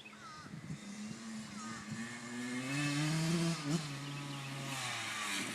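A small off-road vehicle engine idling, revving up a little about two and a half seconds in and then settling back.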